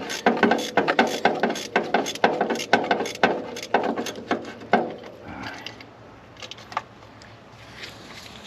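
A 1/2-inch ratchet clicking steadily, several clicks a second, as a freed spark plug is backed out of the engine; the clicking stops about five seconds in, leaving a few faint ticks.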